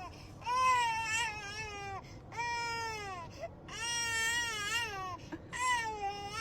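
A dog crying in long, drawn-out whining wails that sound like a baby crying: about five calls, each around a second long and falling in pitch at the end, with short breaks between them.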